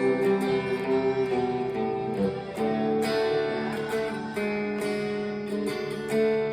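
Acoustic guitar strummed in steady chords, the chord changing about two and a half seconds in and again near four and a half seconds.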